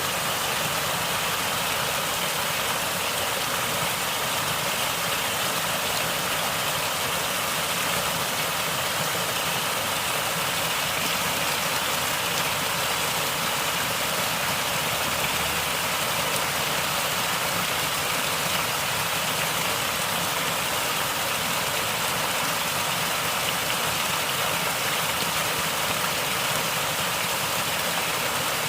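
Natural flowing water gurgling steadily, an even rushing sound with no breaks.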